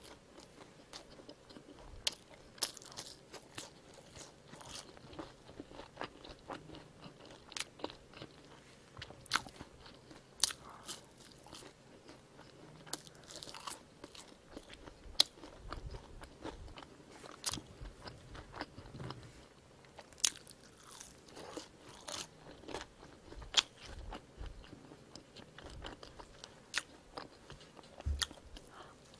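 A person chewing French fries and a squid burger close to the microphone, with irregular crisp crunches and clicks.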